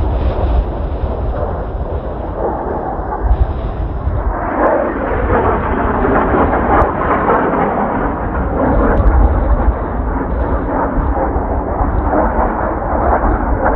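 Rumbling jet roar of Blue Impulse Kawasaki T-4 jets flying overhead, swelling louder about four and a half seconds in. Heavy wind buffets the microphone throughout.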